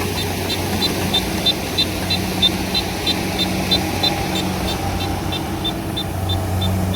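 Diesel engine of paddy-harvesting machinery running steadily, with a regular light clicking about three times a second over the drone.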